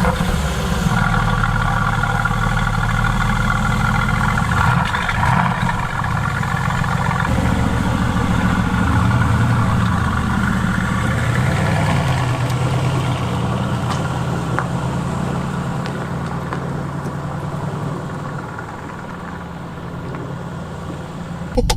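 Mercedes-AMG GT S twin-turbo V8 idling just after being started, a steady running note whose pitch pattern changes about seven seconds in and which grows a little quieter near the end.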